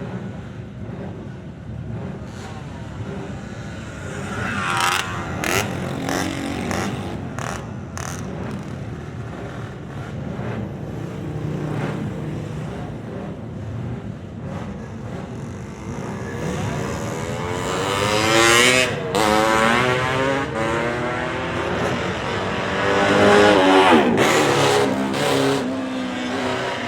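Vintage motorcycles riding past one after another, their engines revving and their pitch rising and falling as each one goes by. The closest passes come about two-thirds of the way in and again near the end. There are a few sharp cracks about five to eight seconds in.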